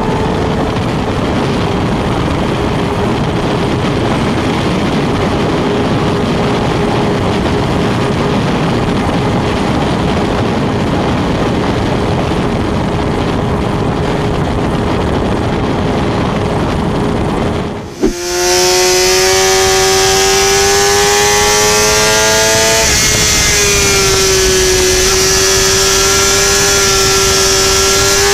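Sportbike engines heard onboard at high speed. At first a heavy rush of wind covers a steady engine note. After a sudden cut about two-thirds through, a clearer engine note climbs slowly, drops once at an upshift, and then climbs again.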